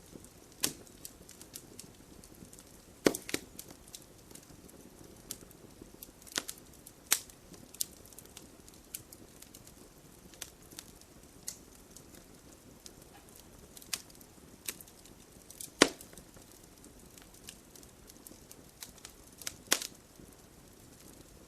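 Logs burning in a fireplace: irregular sharp crackles and pops over a soft, low rush of flame. A few pops stand out loud, about three seconds in, around two-thirds of the way through, and near the end.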